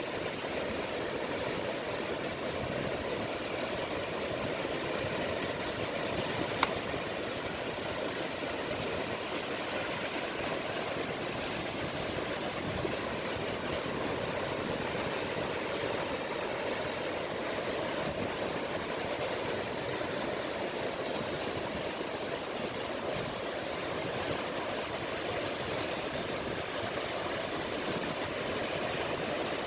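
Small sea waves washing steadily on the shore, an even, unbroken rush of water. One sharp click about six and a half seconds in.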